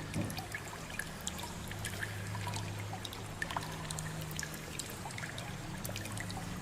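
Water dripping and trickling, with many small drips and splashes scattered throughout, over a steady low hum.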